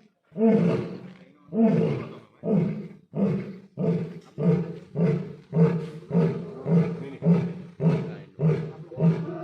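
Lion roaring bout: a few longer deep roars, then a run of short grunting calls that get shorter and quicker, about two a second towards the end.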